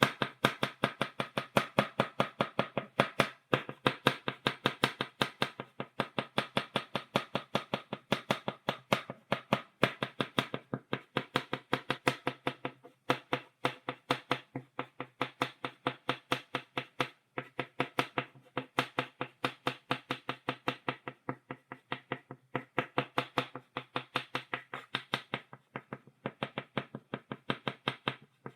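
Stick of chalk tapping rapidly on a blackboard to stipple dots, about four to five sharp taps a second in runs with brief pauses every few seconds.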